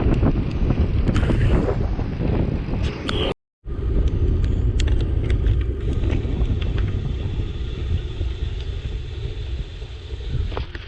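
Wind noise battering an action camera's microphone on a moving bicycle, with scattered small ticks over it. The sound cuts out completely for a moment about three and a half seconds in, then carries on a little weaker.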